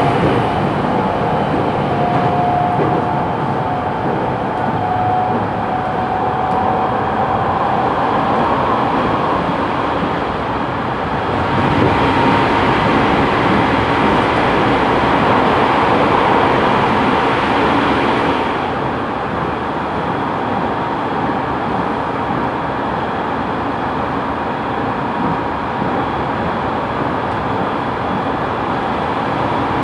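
Running noise of a JR East 209 series electric train heard from inside a motor car: a steady rush of wheels on rail with the thin whine of the traction motors. It grows louder and brighter for several seconds from about twelve seconds in.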